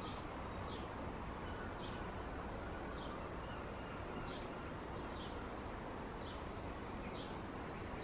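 A bird repeating one short, high, downward-slurred call about once a second, over a steady background rumble.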